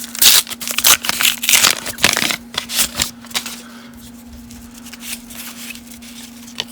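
Baseball card pack being handled and opened: the wrapper crinkles and tears and the cards rustle, densely for the first three seconds or so, then more quietly.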